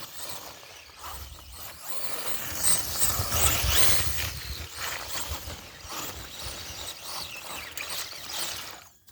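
Brushless electric Axial Wraith RC mud truck running over wet, snowy ground, with wind rushing on the microphone; a gust swells about three seconds in and fades again.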